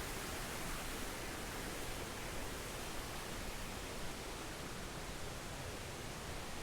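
Waterfall water rushing in a steady, even hiss with no breaks.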